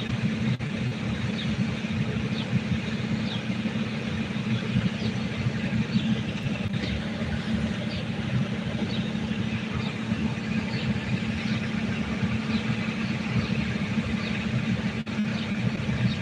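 Steady low mechanical rumble, with faint short high peeps about once a second over it.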